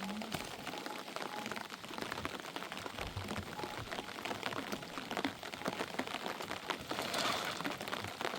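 Rain falling hard, a dense, continuous patter of many small drops striking a surface.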